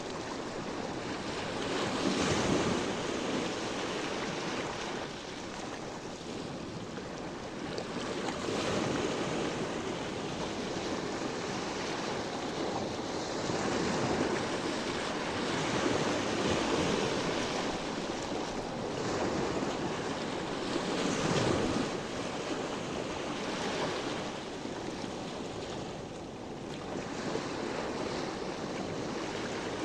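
Sea waves washing onto the shore, the surf swelling and falling back every few seconds, with some wind on the microphone.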